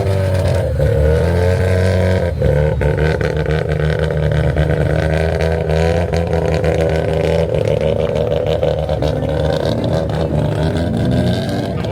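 Car engine running loudly, with short revs that lift and drop its pitch near the start and again near the end.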